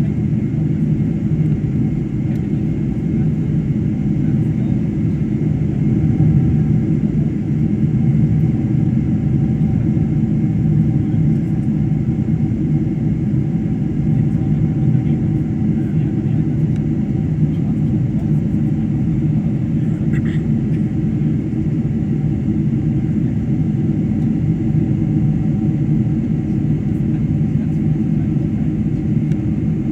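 Steady low rumble of a Boeing 747-400 heard from inside the passenger cabin in flight, with the engines and airflow making an even drone. A brief faint tick comes about twenty seconds in.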